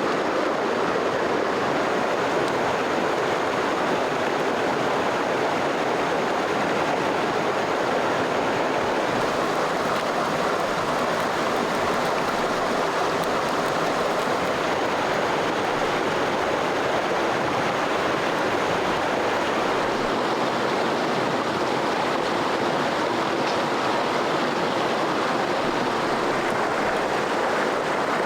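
Stream water rushing in a steady, unbroken flow.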